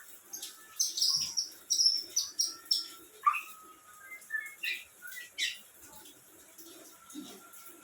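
Small songbirds chirping and calling, with a quick run of about six short, high, falling notes about a second in, then scattered softer chirps.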